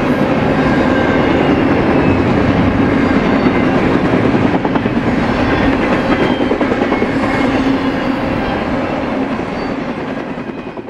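BNSF freight train rolling past, with a steady rumble and clatter of wheels on rail that starts to fade near the end.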